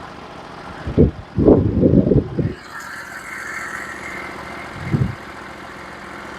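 Norwood HD36v2 portable sawmill's engine idling steadily, with several knocks and clunks as the mill is set up for a cut. About two and a half seconds in, a higher steady whine joins the engine.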